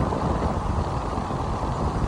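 Steady, loud wind rush on the microphone of a camera moving with a bicycle at riding speed.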